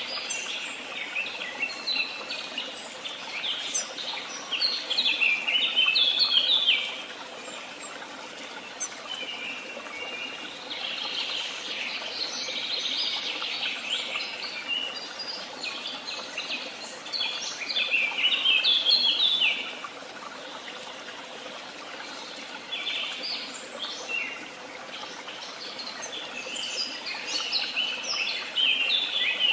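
Woodland songbirds singing, a chorus of quick chirping notes. Louder song phrases of rapid, stepping, falling notes recur about every twelve seconds.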